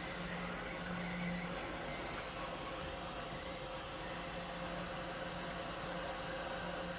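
Steady blowing hiss with a faint low hum from a hot-air rework gun heating solder on a circuit board.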